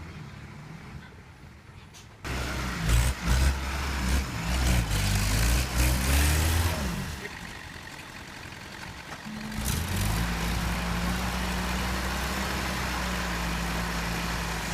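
Heavy truck engine, running low at first, then revving hard in repeated rises and falls of pitch for several seconds, easing off, and settling into a steady run for the last few seconds.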